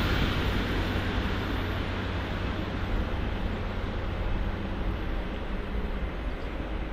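ICE 1 (class 401) high-speed train running away along the line, its rolling noise slowly fading into a steady low rumble.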